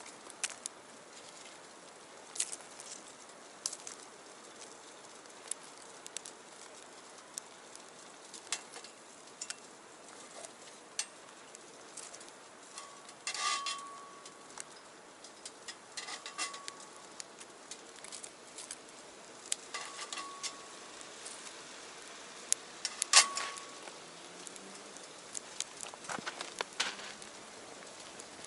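Wood fire crackling and popping irregularly in a small stainless-steel box stove, over a steady low hiss. The sharpest pop comes about two-thirds of the way through.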